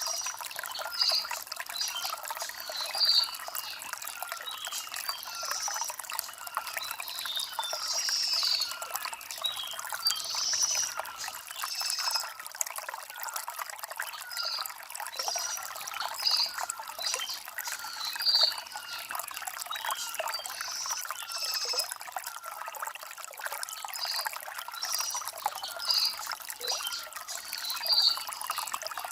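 Shallow stream trickling and splashing over river stones, with birds chirping in short high calls that repeat every second or two.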